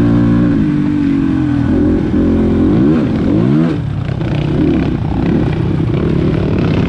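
Dirt bike engine running under changing throttle on a trail ride. It revs up and down several times in quick succession around the middle, dips briefly, then settles into a steadier run.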